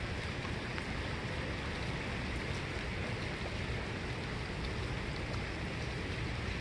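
Steady rain falling on standing floodwater: an even hiss with a few faint scattered drop ticks.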